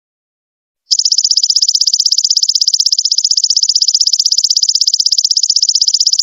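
Golden locust (belalang emas) calling: a loud, high-pitched, rapidly pulsed insect trill that starts about a second in and runs on evenly without a break.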